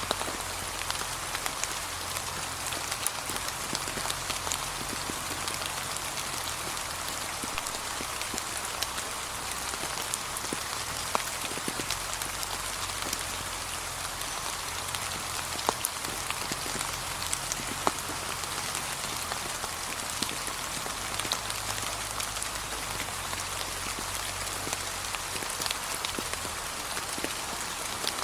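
Steady gentle rain falling on a path covered in fallen autumn leaves: an even hiss with many separate drop taps scattered through it.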